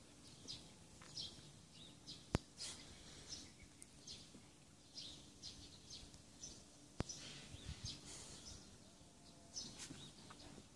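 Faint bird chirps repeating throughout, short and high-pitched, with two sharp clicks, one about two seconds in and one about seven seconds in.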